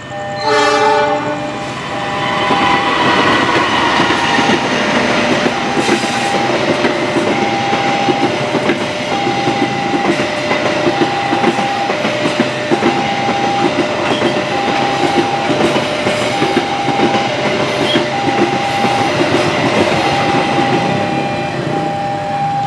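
A CC 206 diesel-electric locomotive gives a horn blast of about a second as it reaches the level crossing, then it and its passenger coaches pass close by with a steady rumble and rapid wheel clatter over the rail joints. A level-crossing alarm chimes in two alternating tones throughout.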